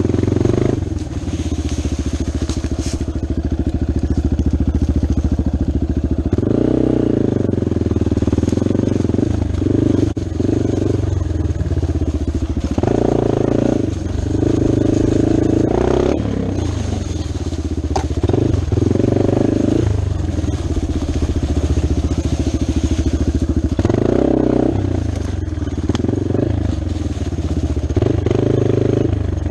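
Dirt bike engine running while being ridden, its pitch and loudness rising and falling many times as the throttle opens and closes.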